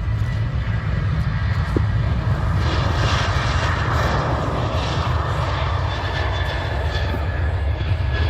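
Boeing 737 jet airliner taking off: a steady heavy low rumble with a broad engine rush that swells a few seconds in and then slowly eases.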